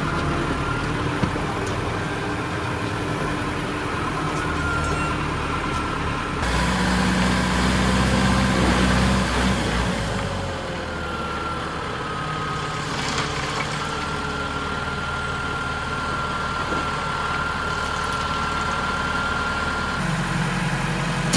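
Farm tractor's diesel engine running steadily, with a thin steady whine above it. The engine note changes abruptly about six seconds in and again near the end.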